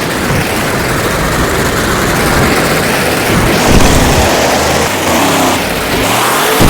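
Monster truck running loudly, a rough, steady motor-and-drive noise with small surges about halfway through and near the end.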